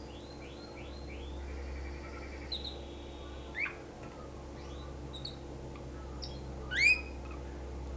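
Canary singing: a run of quick falling notes, about four a second, then a buzzy trill and a held whistle, followed by scattered sharp chirps, the loudest near the end. A steady low hum runs underneath.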